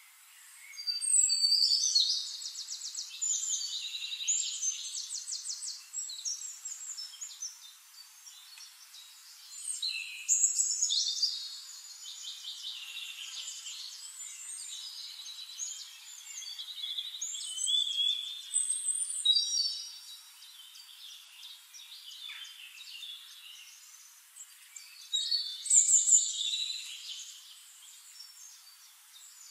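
Songbird singing: four loud bursts of rapid high trills and chirps, several seconds apart, with softer chirping in between.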